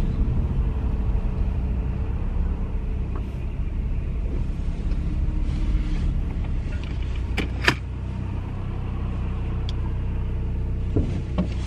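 Steady low rumble of a car's engine running, heard from inside the cabin, with a single sharp click about two-thirds of the way through.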